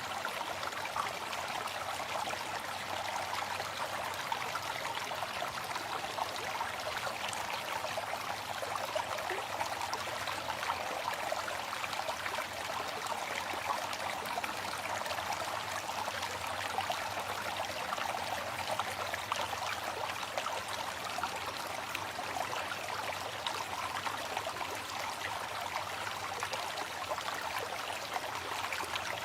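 Waterfall: water falling and splashing in a steady, even rush with no change throughout.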